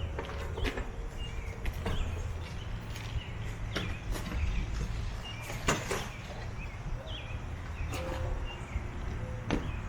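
Scattered knocks and rustles of debris being gathered and bagged up inside an empty box truck, over a low steady rumble, with birds chirping now and then.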